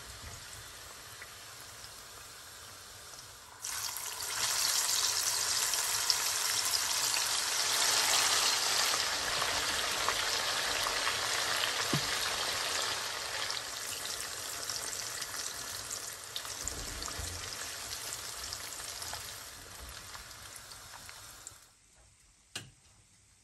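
Chicken pieces deep-frying in hot oil: a steady bubbling sizzle that gets suddenly louder about four seconds in, then tapers and stops near the end, followed by a single click.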